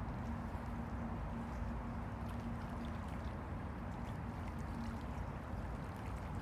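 Han River water lapping and sloshing against the bank: a steady low wash with small splashes and drips scattered through it. A faint steady hum sits underneath.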